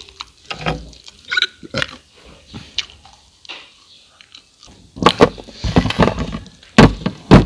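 Close-up chewing and crunching of crispy fried rice crackers (bay kdang), with wet mouth smacking. The sound is quieter in the middle, and the loudest run of crunches comes in the last few seconds.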